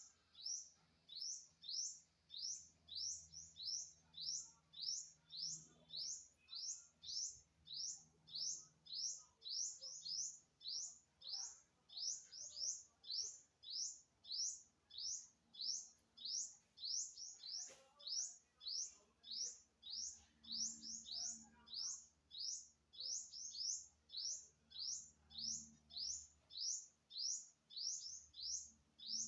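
A bird giving the same short, high-pitched chirp over and over, evenly, about twice a second.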